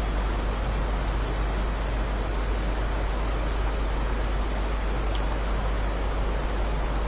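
Steady heavy rain: an even, unbroken hiss with a deep rumble underneath and no single drops standing out.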